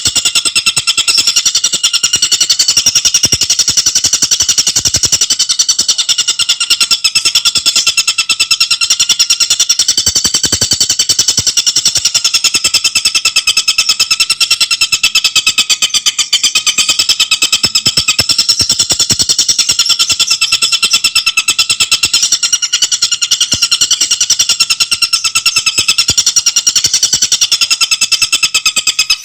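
Tengkek buto songbird singing a continuous, very fast chattering trill of tightly packed high notes.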